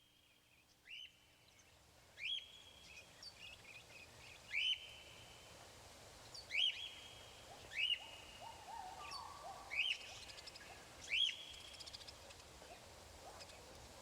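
A bird calling over and over, each call a quick rising note that then holds, repeated every one to two seconds. Lower calls from another bird join partway through and again near the end, over a faint steady hiss.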